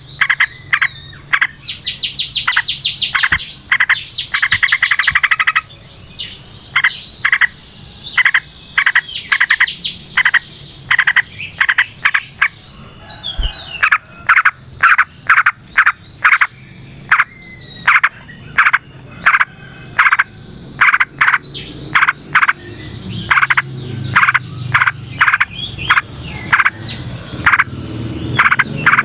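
Yellow-vented bulbul (trucukan) singing. Rapid trilled phrases come in the first few seconds and again around nine seconds in, followed by a long series of short repeated chirps, a little under two a second.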